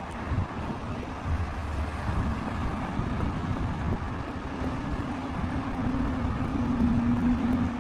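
Steady low rumble of a running vehicle, with a humming tone that grows stronger over the last few seconds.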